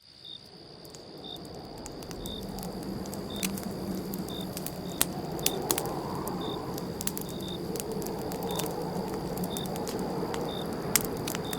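Campfire crackling, with sharp irregular pops over a steady hiss of burning wood, and crickets chirping about once a second; it fades in over the first couple of seconds.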